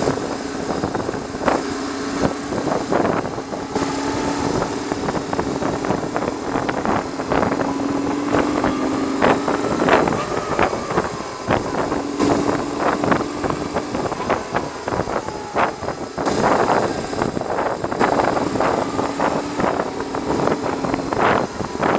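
BMW R1100R's air/oil-cooled boxer twin engine running on the road, its pitch rising around the middle and then settling, buried under heavy wind buffeting on the microphone.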